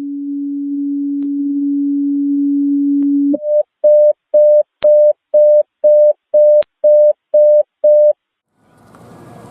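Fire station alerting tones: a long steady tone, then a run of about ten short higher-pitched beeps, roughly two a second. Near the end a vehicle engine starts rumbling.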